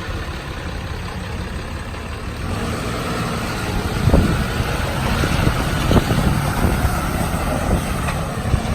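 Ram 5500 bucket truck's engine running as the truck pulls away, getting louder a couple of seconds in. Two sharp thumps stand out about four and six seconds in.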